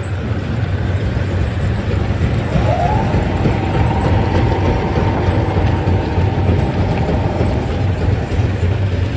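Heavy stone-crusher machinery running with a steady low hum and rumble. A whine rises about two and a half seconds in, holds at one pitch for about five seconds, then fades.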